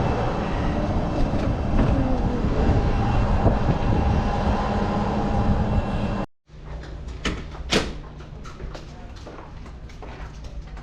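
Jet ski engine running under way with dense wind and water noise. About six seconds in, an edit cuts to a quieter stretch with a low steady hum and a few clicks.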